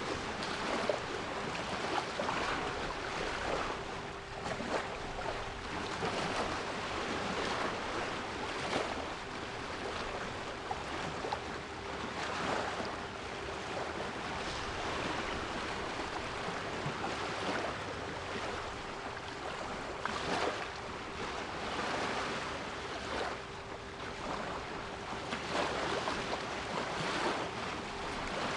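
Sea waves, a continuous rushing noise that swells and ebbs irregularly, with a steady 396 Hz pure tone held beneath it throughout.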